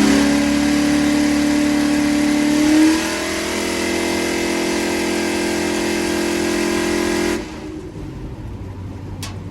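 Race truck engine at full throttle, held at high revs with a steady pitch. It changes note about three seconds in and drops away suddenly about seven seconds in, as the throttle is let off.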